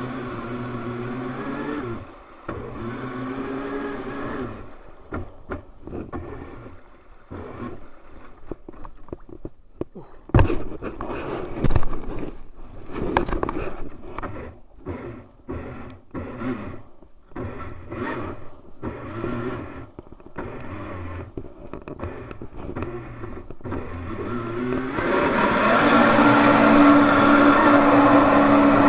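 Electric jet kayak's motor and jet drive whining, rising and falling in pitch, then dropping away about two seconds in. Irregular knocks and scraping follow, two of them sharp and loud. Near the end the motor comes back in with a steady whine.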